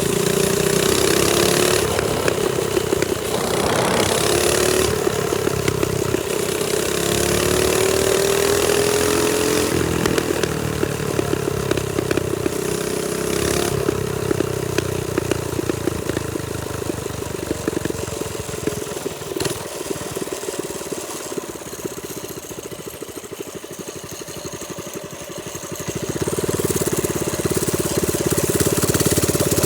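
TrailMaster Storm 200 minibike's small single-cylinder engine running under way, its pitch rising and falling with the throttle. It drops to a quieter, lower run partway through and picks back up near the end.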